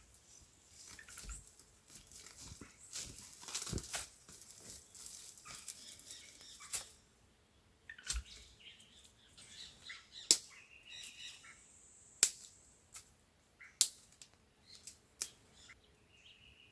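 Dry tangerine twigs being snapped off and handled, with rustling and sharp cracks; the loudest snaps come singly every second or two in the second half.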